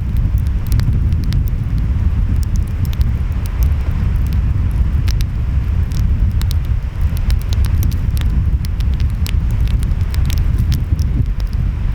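Wood fire crackling, with many sharp irregular pops, over a steady low rumble of ocean waves and wind.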